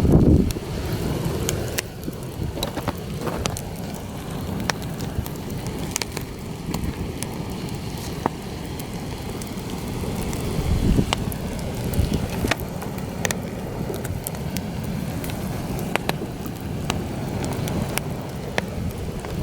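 Campfire crackling, with sharp pops scattered throughout, under heavy wind buffeting the microphone in a low rumble that swells at the start and again about eleven seconds in.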